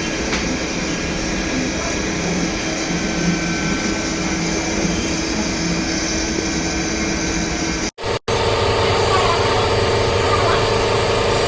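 CNC lathe running steadily with a hum of several tones while thread-cutting a long shaft. About eight seconds in the sound cuts out briefly, then comes back louder with a stronger hum.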